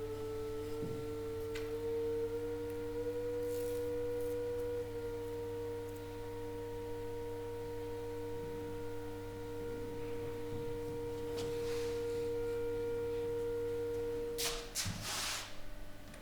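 Steady sine test tones played through a loudspeaker: one tone near 450 Hz with a lower steady tone under it, over a constant low hum. Both tones cut off about 14.5 seconds in, followed by a few short clicks and handling rustles.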